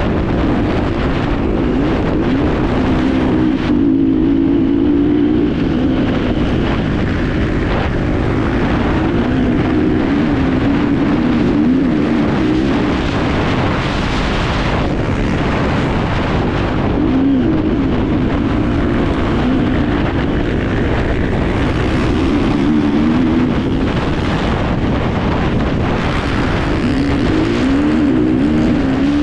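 Enduro motorcycle engine heard from on board while racing, its pitch rising and falling again and again as the throttle is opened and closed, over steady wind and terrain noise.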